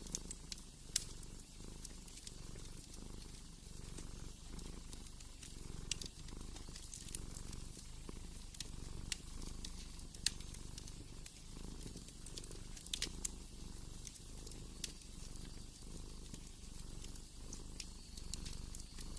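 Cat purring in a steady, rhythmic low rumble, with scattered sharp crackles and pops from a wood fire; the loudest pops come about a second in and about ten seconds in.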